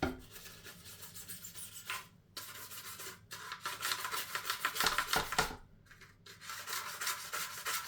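Toothbrush bristles scrubbing a plastic washing-machine detergent drawer in rapid back-and-forth strokes, with two short pauses about two and six seconds in.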